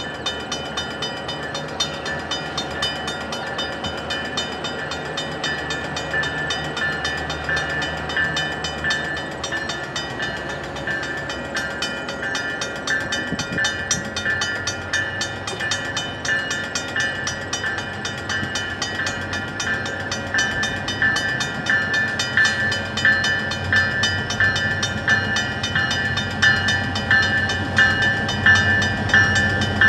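Locomotive bell ringing in a steady rhythm on a slowly approaching freight train led by EMD GP38-2W and GP40-2WL diesel locomotives. The low engine sound grows louder in the second half as the locomotives draw alongside and the freight cars begin rolling past.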